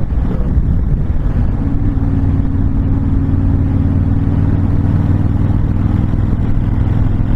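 Honda VTX1300's V-twin engine running at a steady cruise, heard from the rider's seat, its note settling into an even hum about a second and a half in.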